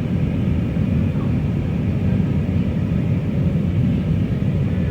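Steady low rumble of cabin noise inside an Airbus A319-114 airliner: engine and airflow noise holding an even level.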